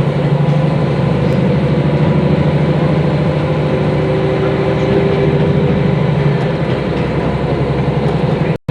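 Diesel railcar's engine running steadily with the train under way, heard from inside the car. The sound cuts off abruptly near the end.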